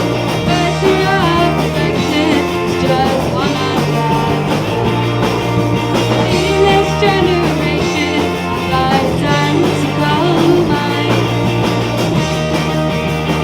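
Live rock band playing, with a young woman's lead vocal singing over guitar, bass and drums.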